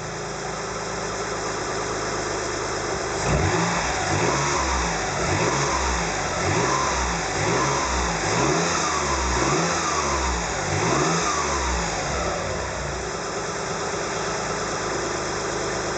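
Mitsubishi Legnum VR4's twin-turbo V6 idling, then revved up and down repeatedly for about ten seconds before settling back to idle, with a whine that rises and falls in pitch with the revs. With all drive belts off, the whine comes from the engine itself; the owner later traced it to a blown rear turbo.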